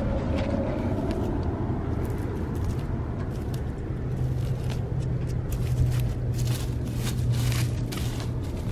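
A steady low mechanical rumble with a low hum, with a few light clicks and knocks about five to eight seconds in.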